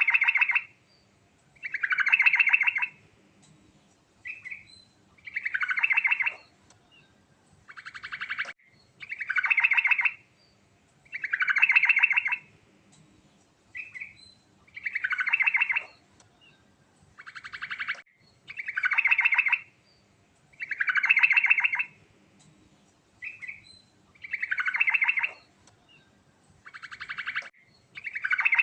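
Sooty-headed bulbul (trucukan) singing a continuous rolling song: rapid, rattling phrases about a second long, repeated every one to two seconds with short notes between them.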